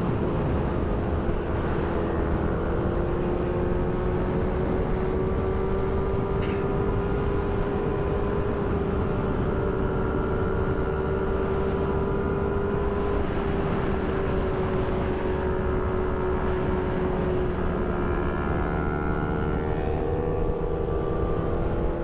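Yamaha R6 sport bike's 600 cc inline-four engine running at steady cruising revs, its pitch drifting only slightly, with wind rush on the microphone.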